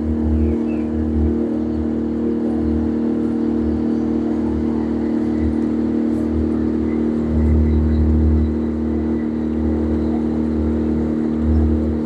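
Passenger boat's engine running at a steady drone, with irregular low rumbling from wind buffeting the microphone.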